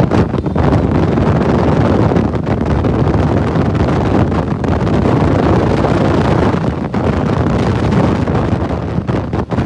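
Heavy wind buffeting on the microphone of a motorcycle riding at speed, a dense, steady rush that covers the engine, with a few brief dips.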